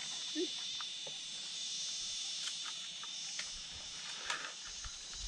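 A steady, high-pitched insect chorus, with a few faint scattered clicks and knocks.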